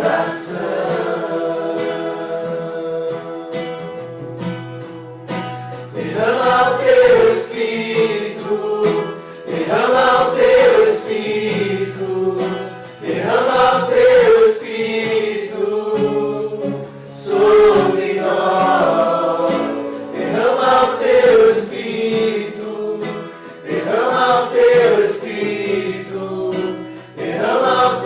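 A small group singing a worship song together over an acoustic guitar. The voices start a new phrase with a held note about every three and a half seconds.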